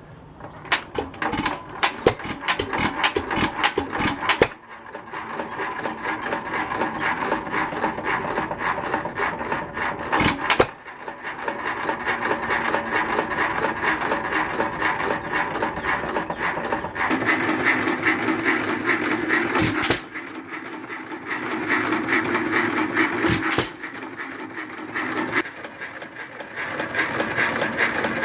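Worthington 2.5 hp hit-and-miss engine running, a steady busy mechanical clatter of rapid ticks and knocks. The sound changes abruptly several times.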